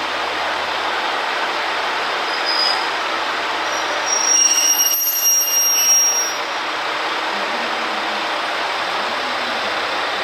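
Train moving on the station tracks with a steady running noise. High-pitched wheel squeal rings out from the rails from about two and a half to six and a half seconds in.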